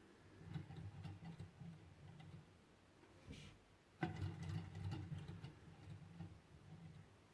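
Hand-made Stirling engine running, giving a quiet, rhythmic ticking of about four beats a second, with one sharper click about four seconds in.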